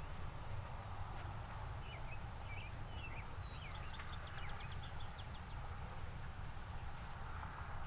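A songbird sings a short phrase of high chirps that ends in a quick trill, over a steady low rumble.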